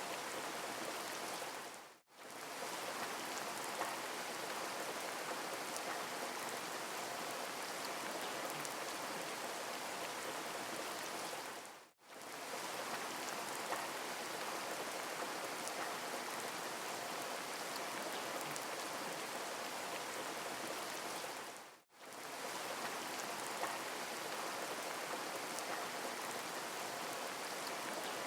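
Steady rain hissing, with fine drop detail. It fades out to silence for a moment and back in three times, about ten seconds apart, like a short rain recording looped.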